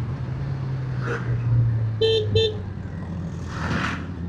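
Motorcycle engine running steadily while riding, with two short horn toots about two seconds in and a brief rush of wind noise near the end.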